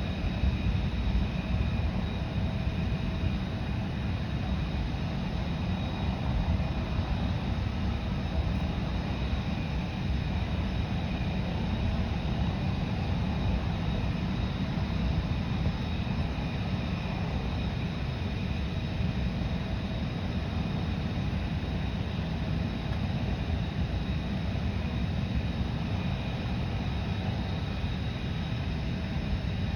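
Aircraft engines running steadily: a constant low rumble with a steady high-pitched whine over it.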